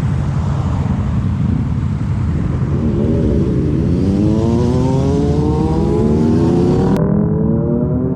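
Kawasaki Z250 parallel-twin through a SeaPro aftermarket muffler, heard from the rider's seat with wind rushing past. The engine note dips briefly about three seconds in, then climbs steadily as the bike accelerates. The wind hiss cuts off abruptly near the end.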